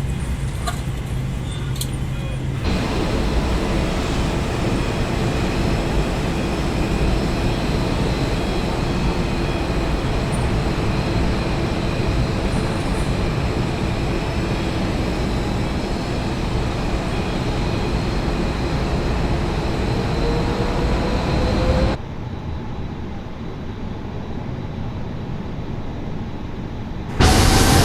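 Steady rush of aircraft noise in an airliner parked at the gate, with faint steady whines and one whine rising slightly about twenty seconds in. The sound changes abruptly twice, and a short loud burst comes just before the end.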